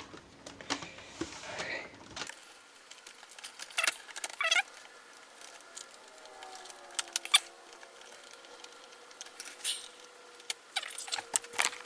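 Scattered light clicks and taps of a laptop's plastic case parts being handled and fitted back together.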